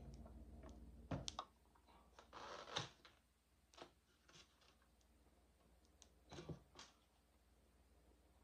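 Faint eating sounds: close-up chewing and mouth clicks, a few sharp clicks, and a short rustling noise between two and three seconds in.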